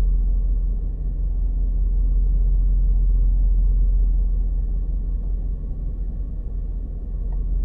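Crop-dusting airplane making a spraying pass overhead: a steady low engine drone, a little louder in the first half.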